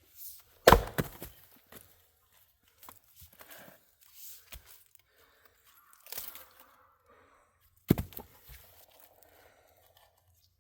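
Fiskars X27 splitting axe striking hardwood firewood rounds: two sharp hits about seven seconds apart, each followed by a short crackle of the wood splitting, with a lighter knock between them.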